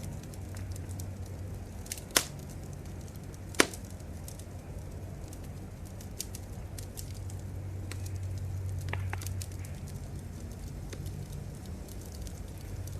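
Wood fire crackling, with scattered small ticks over a low steady rumble and two sharp loud pops about two and three and a half seconds in.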